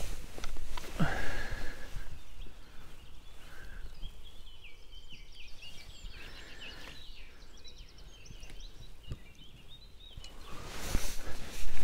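Small bird singing a quick run of high chirping notes for several seconds in the middle, over outdoor background noise. A short sudden sound comes about a second in, and a louder swish near the end.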